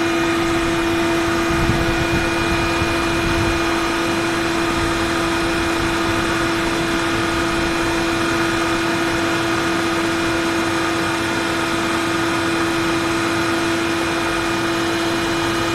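Electric carding machine for wool and cotton running steadily: a constant whine from its high-speed spiked drum, motor and dust-extraction fan over a broad hiss, with a brief low rumble about two seconds in.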